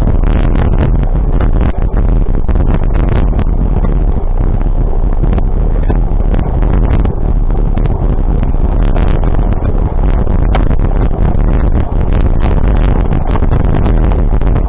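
Wind buffeting the microphone over a steady low vehicle rumble while on the move, loud throughout with constant flutter.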